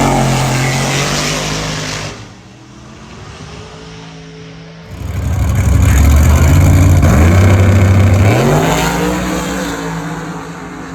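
Drag-racing street car engines at full throttle, accelerating hard. The first burst is loud and ends about two seconds in. A second, louder run starts about five seconds in, its pitch climbing in steps through the gear changes, then fades away near the end.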